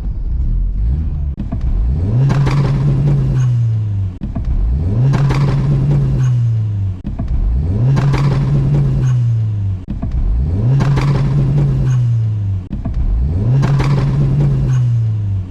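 Car engine revving up and dropping back, five times at an even pace about every three seconds.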